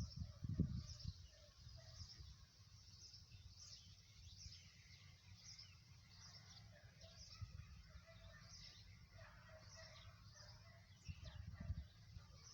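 Faint bird chirps, short and high, repeating about once a second over a quiet outdoor background. Low dull thuds come in the first second and again near the end.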